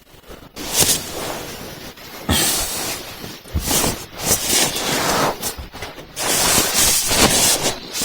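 Fabric rustling in irregular bursts, nylon and clothing shifting as a sweatshirt is pulled on inside a tent.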